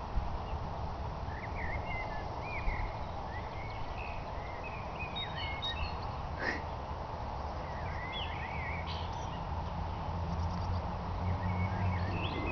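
Small songbirds chirping and twittering in short, quick phrases with rising and falling notes, over a steady low rumble, with one sharp click about six and a half seconds in.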